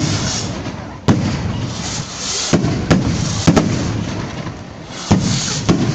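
Fireworks going off in a string of sharp, echoing bangs, about seven in six seconds, some in quick pairs, over a steady rushing noise.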